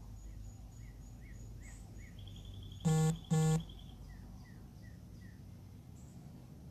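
Outdoor nature ambience: a steady pulsing insect trill and small faint chirps, then two loud, short, harsh nasal calls in quick succession about three seconds in.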